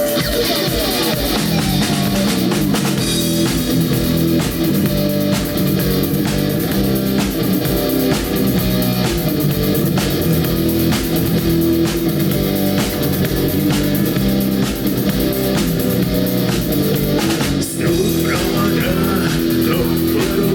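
Live rock band playing an instrumental intro: electric guitar, bass guitar and drum kit keeping a steady beat, with a short break near the end.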